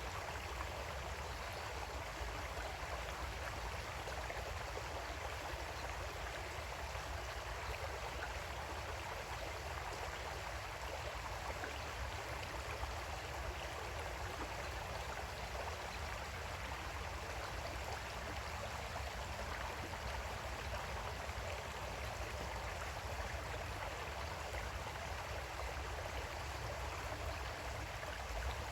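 Creek water flowing steadily over rocks, a continuous even rush and babble with no sudden changes.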